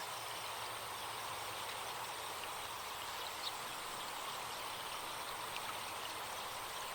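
Forest stream running steadily, an even wash of flowing water, with a few faint, brief high chirps of birds.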